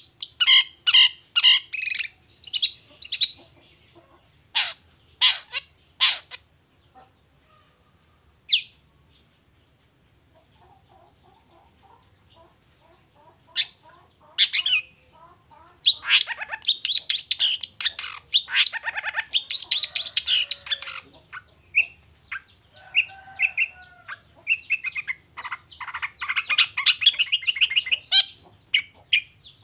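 Long-tailed shrike (cendet) singing: bursts of rapid, sharp high notes and dense chattering, with a quieter stretch of faint notes in the middle.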